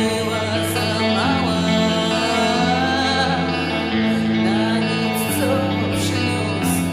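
Gothic rock music: sustained electric guitar and bass chords under a singing voice.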